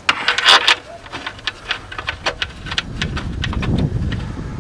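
Irregular sharp metallic clicks and clatter of hand tools and bolts as the intake bolts are started by hand, with a louder burst of clatter at the start. A low rumbling rustle joins about three seconds in.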